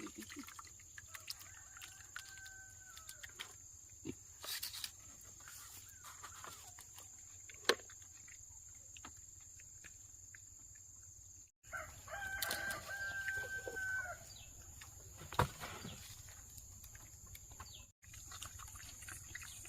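A rooster crowing twice, the second crow louder, over a steady high-pitched drone, with scattered sharp clicks and knocks between the crows.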